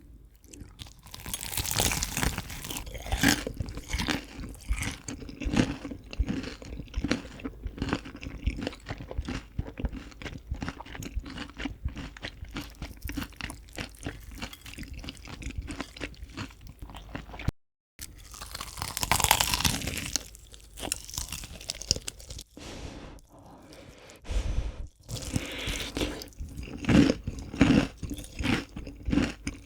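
Close-miked biting and chewing of crispy fried chicken: dense crunching of the fried crust, with louder bites a couple of seconds in, just past halfway and near the end. The sound drops out completely for a moment just after halfway.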